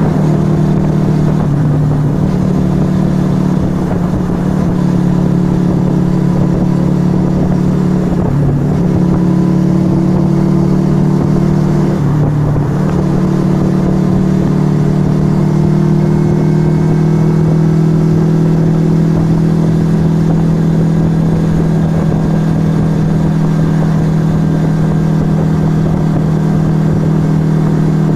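Yamaha XV125 Virago's small air-cooled V-twin running through a Turbo Kit aftermarket exhaust, pulling steadily under way. The note breaks off briefly a few times and picks up again.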